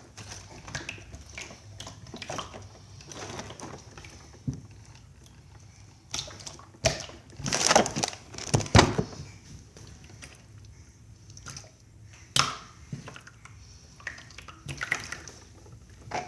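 Slime being squeezed and stretched by hand: wet squelches with small clicks and pops, loudest in a burst about halfway through.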